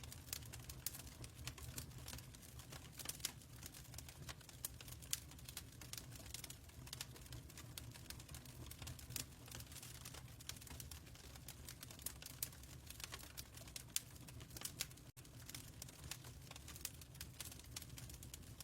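Fireplace crackling: quick irregular snaps and pops from the burning wood over a steady low rumble of the fire.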